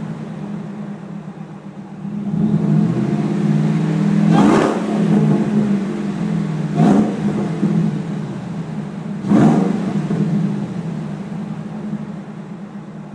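2003 Ford SVT Lightning's supercharged 5.4-litre V8 idling through a Borla exhaust with Bassani mid pipes, blipped three times in quick revs a couple of seconds apart, then settling back to idle.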